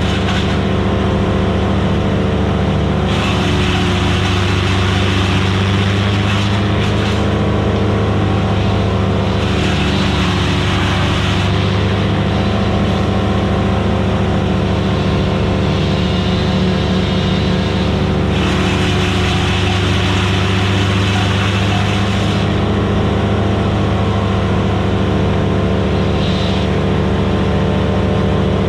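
Vermeer BC1000XL gas wood chipper running steadily, its engine a constant drone, with several stretches of louder, harsher noise as wood is fed in and chipped.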